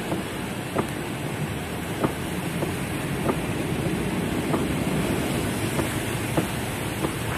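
Heavy rain on a car roof heard from inside the cabin: a steady dense patter, with single heavier drops tapping out above it irregularly, about one or two a second.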